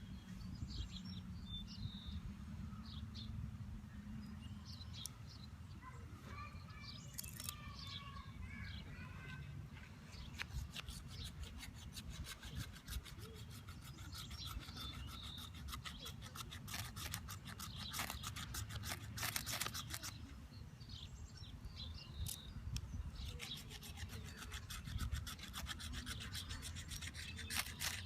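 Wooden hand-drill spindle spun between the palms into a dry cottonwood fungus hearth, a rapid dry rubbing and scraping that sets in about a third of the way through, pauses briefly, then resumes, grinding out dark dust toward a coal. A low steady rumble of background noise runs underneath.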